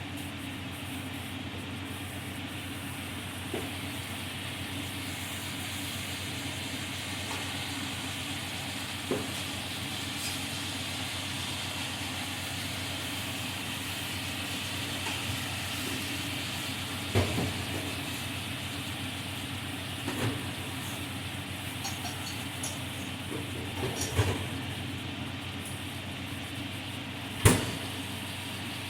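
Food sizzling steadily in hot oil in a frying pan, with a few sharp knocks of a utensil against the pan, the loudest near the end.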